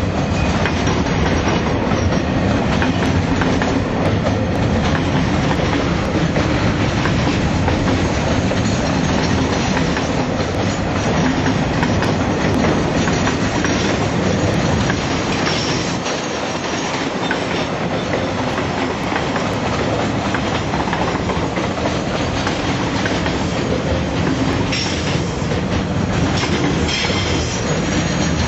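Container freight train's wagons rolling past at close range: a steady, loud rumble and clatter of steel wheels on the rails.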